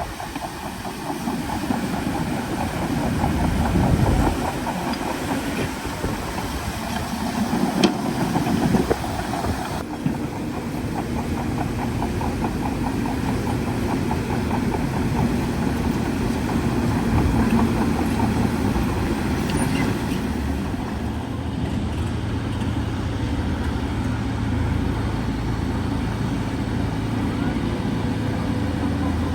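Heavy diesel engine of a bulldozer running continuously as it works soil, with one sharp clank about eight seconds in; later it settles into a steadier hum.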